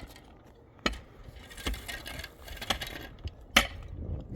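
Four sharp clinks from hand tools at construction work, about a second apart, the first and last ringing briefly.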